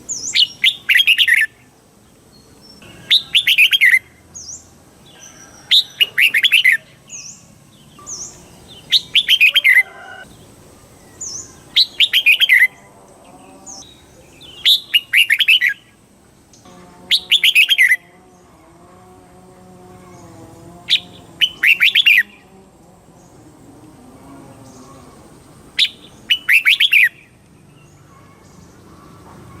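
Red-whiskered bulbul singing: short, loud phrases of quick falling notes repeated every few seconds. A faint lower warbling sounds between some phrases in the middle.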